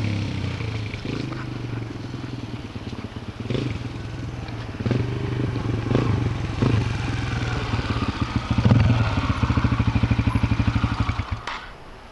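Yamaha TT-R125 dirt bike's single-cylinder four-stroke engine running. The engine note gets louder and pulses evenly about two-thirds of the way through, then stops abruptly shortly before the end.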